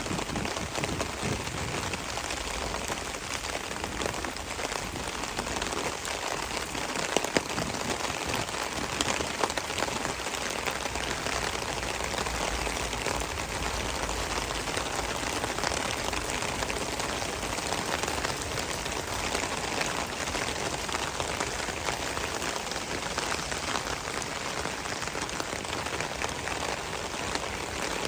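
Steady rain falling and pattering on surfaces, with a few sharper drop taps about seven and nine seconds in.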